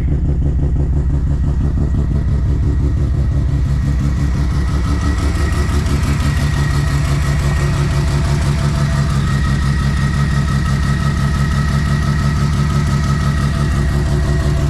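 Semi-peripheral-ported Mazda RX-7 FD 13B twin-rotor engine with a big turbo, idling steadily with a fast, even pulsing exhaust.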